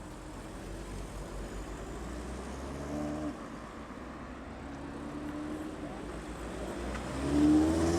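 Audi car engines running as cars pull away at low speed, under a steady low rumble. One engine rises in pitch and gets louder near the end as it accelerates.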